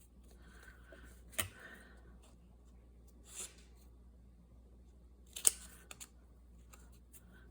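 Scissors snipping pieces off a roll of linen tape: a few separate sharp snips, the loudest about five and a half seconds in, with a softer snip near the middle.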